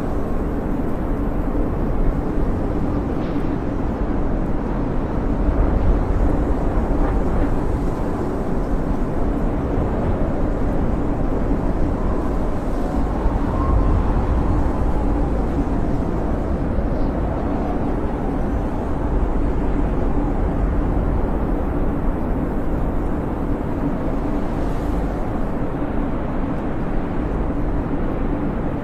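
Snowstorm wind blowing steadily, a deep rushing noise with a faint whistle that rises and falls about halfway through.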